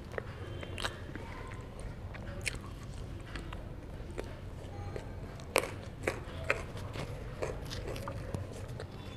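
Close-miked chewing and biting of herring: short, sharp mouth clicks at irregular intervals, the loudest about five and a half seconds in, over a steady low hum.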